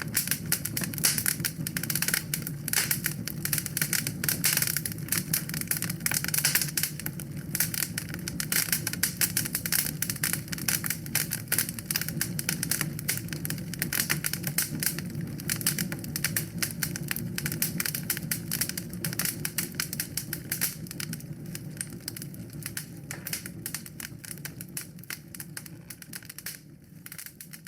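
Wood fire crackling in a fireplace: dense, rapid crackles and pops over a low, steady rumble of the flames, fading out over the last few seconds.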